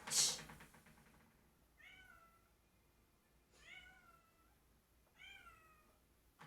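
Domestic cat meowing three times, each meow about half a second long with a rise in pitch at its start, after a short noisy burst right at the beginning.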